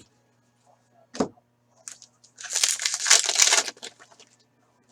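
A single knock about a second in, then about a second and a half of crinkling and rustling as a foil trading-card pack wrapper and cards are handled.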